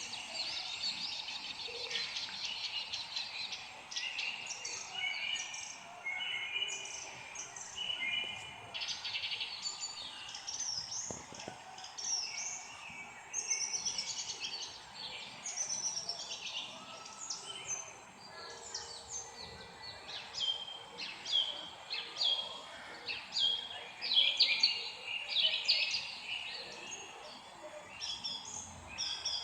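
Several songbirds chirping and singing together, a steady run of short, quick chirps and trills overlapping throughout, loudest a little past the middle.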